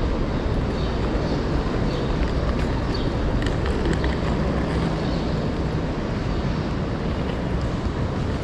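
Passenger train running along the track: a steady low rumble with a few faint clicks and a faint low hum in the middle.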